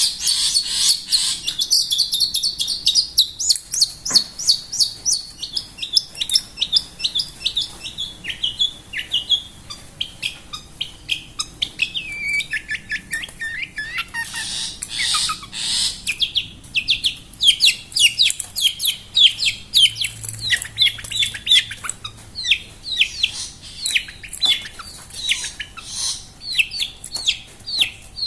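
Long-tailed shrike (pentet) in full, nonstop song: a fast, continuous run of sharp high chirps and short trills, several notes a second, constantly changing in pitch.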